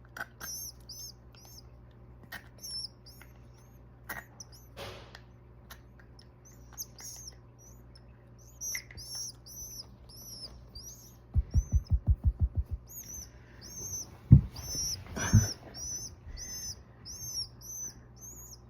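Rescued baby bird chirping to be fed: many short, high chirps repeated one after another, coming faster in the second half. About two-thirds of the way through, a quick run of about nine low thumps and then two single thumps, the loudest sounds.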